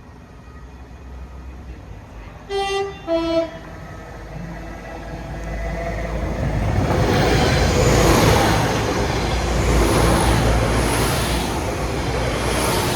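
Passenger train sounds a two-tone horn, a short high note then a lower one, then passes over the level crossing, its rumble and rail noise building over a few seconds and staying loud.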